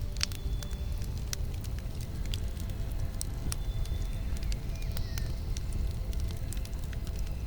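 Campfire burning: wood crackling with frequent sharp, irregular pops over a steady low rumble of the flames.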